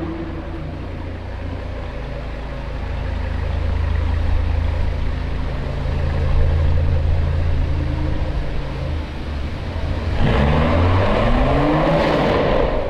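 Car engine idling with a steady low hum, then revved in a few quick rising blips about ten seconds in, louder.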